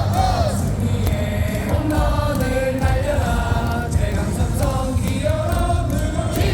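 Large baseball crowd in the stands singing a cheer song in unison, many voices carrying one melody over a dense low rumble.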